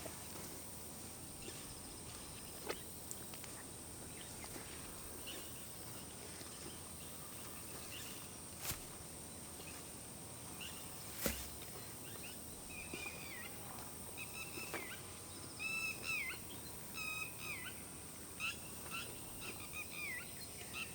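Birds chirping outdoors, short repeated calls that grow busier in the second half, over a steady high insect hiss. A few sharp knocks sound singly in the first half.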